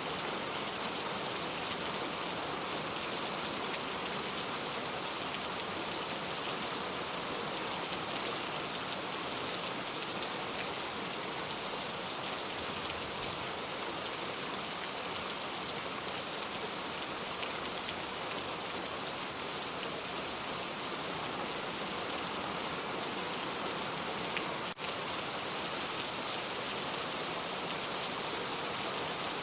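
Steady rain falling on a surface, a dense even patter of drops, with a momentary break near the end.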